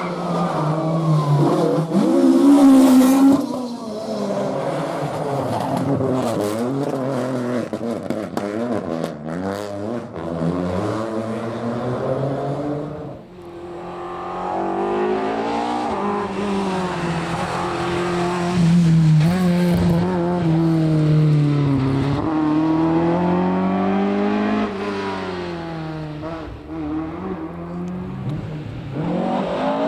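Rally car engine revving hard on a stage, its pitch climbing and dropping again and again as it shifts through the gears. The sound dips briefly about thirteen seconds in, then the engine note picks up again.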